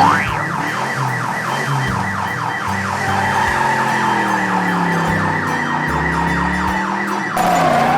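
Electronic alarm sound effect: a fast warbling rising sweep repeating about six times a second, which cuts off abruptly near the end.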